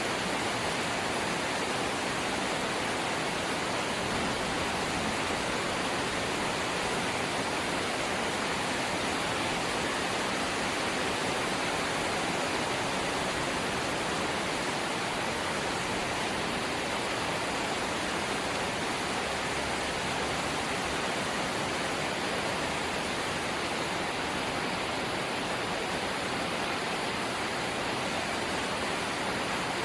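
Steady light rain, an even hiss with no separate drops or changes.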